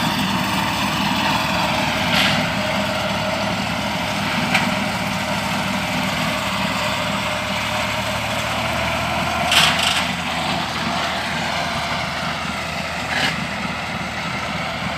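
Engines of grass-mowing machines running steadily while cutting hay, with a few brief sharper bursts about 2, 4.5, 9.5 and 13 seconds in.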